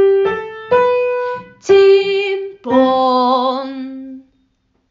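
A keyboard plays a few struck notes, then a woman sings "chim-pón" as a descending perfect fifth: a short high note, then a lower note held with vibrato.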